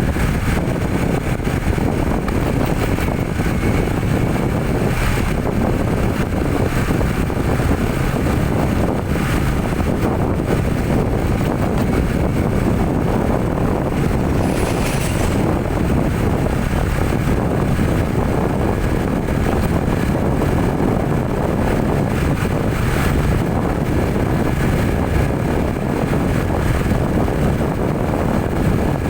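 Steady engine drone and road rumble of a vehicle on the move, with a few brief clicks.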